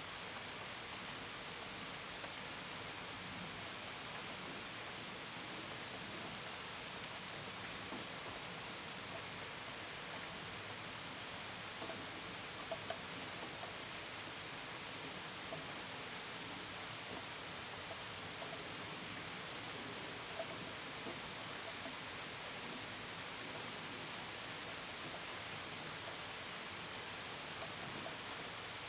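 Steady gentle rain, with scattered drops ticking against a window and gutters. Crickets chirp in short high pulses throughout.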